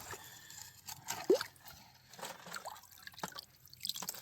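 Water drops falling into shallow creek water: a few separate drips and plops, the loudest about a second in.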